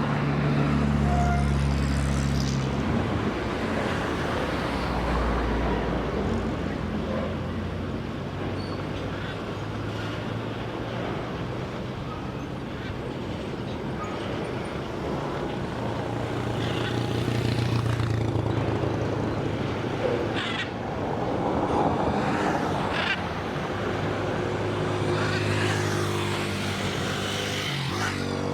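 Diesel-electric freight locomotive engine running, a low drone that swells and eases in level, with a few short knocks in the second half.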